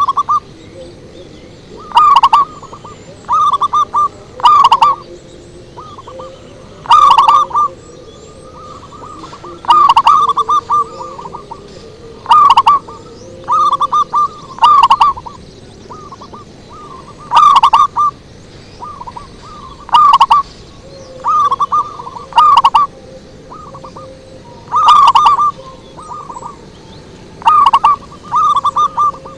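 Zebra dove (perkutut) cooing: loud, short phrases of quick rolling notes, repeated every two to three seconds.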